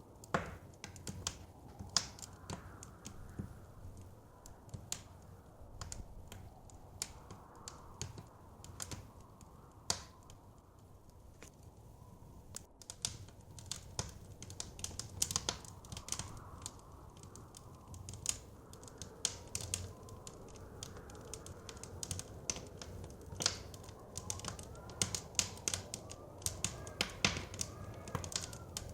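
Wood fire crackling, with frequent sharp pops that come thicker in the last few seconds, over a soft wind that rises and falls.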